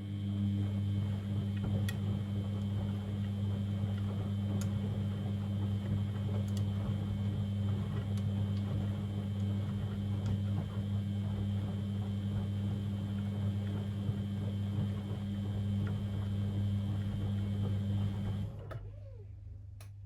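Beko WML 71433 NP washing machine running with a steady electric hum and a few light clicks. The hum drops to a quieter low drone about 18 seconds in.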